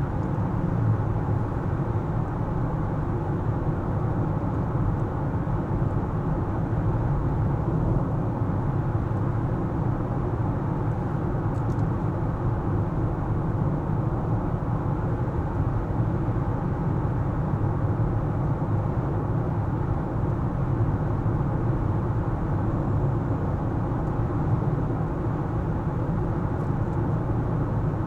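Steady road noise of a car driving: engine and tyres running at an even pace, a low, unchanging noise with nothing standing out.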